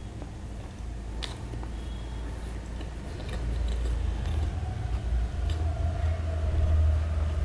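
A person chewing a mouthful of soft dhokla, the steamed gram-flour cake, with mouth sounds that grow louder in the second half.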